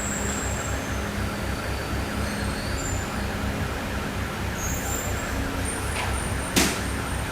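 Car engine running steadily at idle, a low pulsing rumble, with one sharp click about six and a half seconds in.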